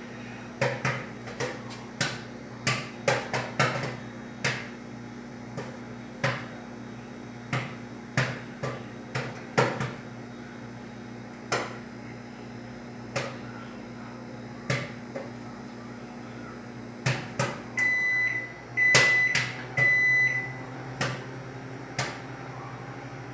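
Electrolux ME41X microwave oven running with a steady low hum while irregular sharp pops and clicks sound many times. Near the end the hum changes and the oven gives three short high beeps, the signal that the heating cycle has finished.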